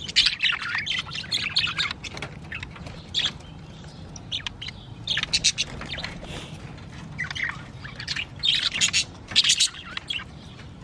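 Budgies chirping and chattering in quick bursts of short high warbles and squawks, easing off for a moment in the middle before picking up again.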